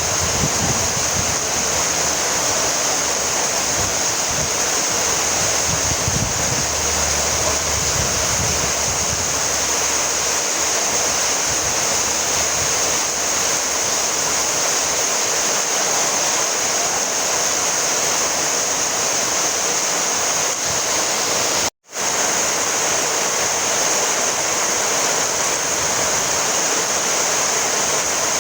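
Steady, unbroken rainfall, a dense even hiss with some low rumble in the first several seconds. The sound drops out to silence for an instant about three-quarters of the way through, then resumes unchanged.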